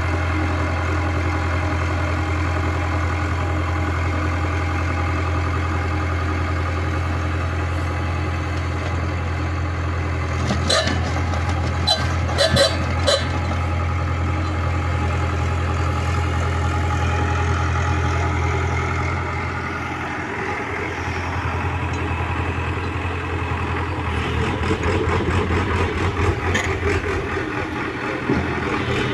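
Heavy diesel engine of an earthmoving machine running steadily at idle, with a few sharp clanks about eleven to thirteen seconds in. About twenty seconds in the engine note drops and changes, then grows rougher and louder.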